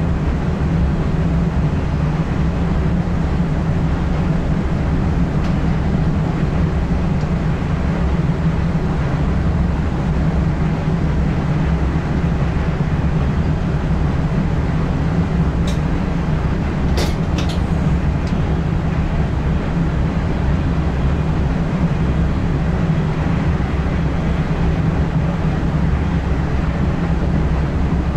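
ICM (Koploper) train running along the line, heard in the driver's cab: a steady rumble of wheels and running gear, with a few sharp clicks a little past halfway.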